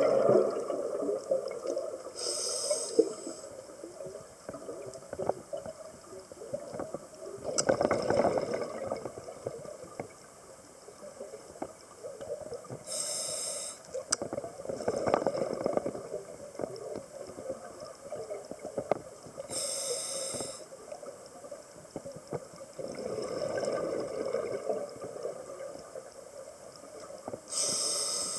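Scuba diver breathing through a regulator underwater: a short hiss with each inhalation, then a gurgling rush of exhaled bubbles. About four slow breaths, one every seven or eight seconds.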